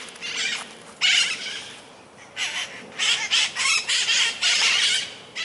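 A flock of feral parrots giving harsh, repeated squawking calls as the birds take off from the trees.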